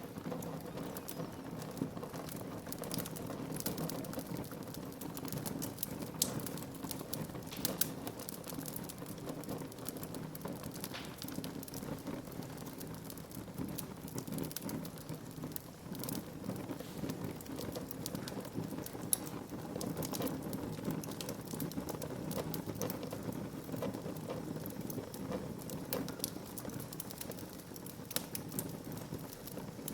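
Wood fire burning in a fireplace: a steady low hiss of flames under frequent sharp crackles and pops, a few of them louder than the rest.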